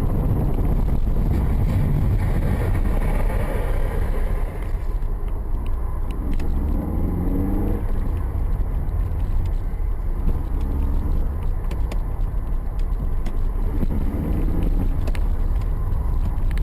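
Steady low rumble of a car driving, picked up by a dashcam inside the car, with a few faint clicks.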